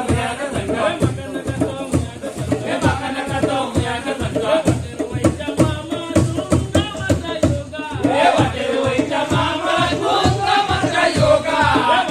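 Siddi Dhamaami dance music: voices singing and chanting together over a fast, steady drum beat of about three strokes a second.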